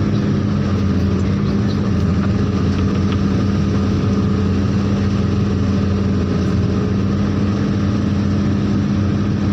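Heavy vehicle engine running steadily at an even speed, with a strong low hum and no revving.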